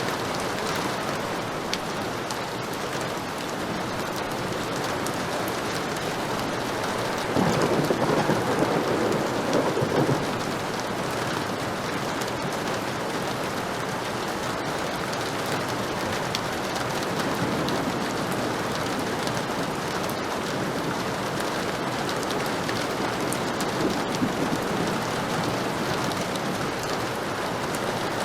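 Heavy rain falling steadily, with a roll of thunder about seven seconds in that lasts a couple of seconds, and fainter rumbles later on.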